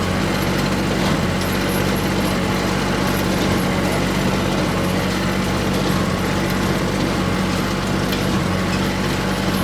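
Small tractor engine running steadily under load while pulling an antique hay baler at work.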